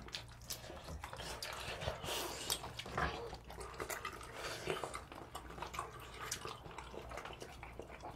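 People chewing chewy rice-dough fish cakes, with scattered small clicks of a spoon and fork against bowls.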